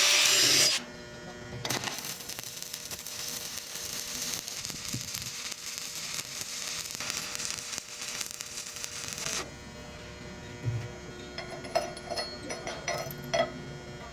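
Stick-welding arc crackling and sizzling steadily, with a faint hum, after a louder noise cuts off under a second in; the crackle stops about nine seconds in, and scattered light metal taps and scrapes follow.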